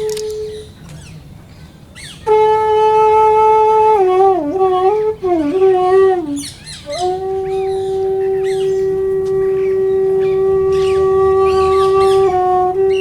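Background music on a wind instrument, playing long held notes with short ornamental bends in pitch between them.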